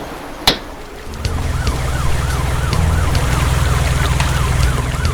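A siren rising and falling quickly, about two and a half cycles a second, over a steady low engine rumble that starts about a second in. A single sharp knock comes just before.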